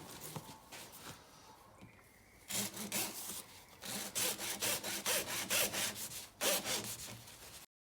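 Back-and-forth sawing strokes cutting into the plastic housing of a small coffee-machine water filter cartridge. They start about two and a half seconds in, run at roughly three strokes a second, and stop abruptly near the end.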